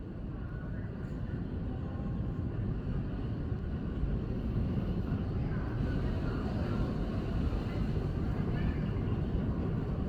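Low, steady rumble of an Airbus A330-300 heard from inside the passenger cabin, growing gradually louder, with faint voices in the background.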